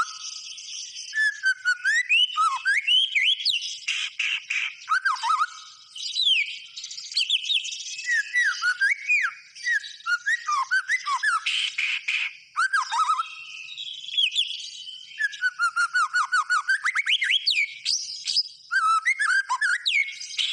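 White-rumped shama (murai batu) in full, non-stop song: a long run of varied clear whistles, slurred notes that swoop up and down, and rapid chattering trills, broken only by brief pauses.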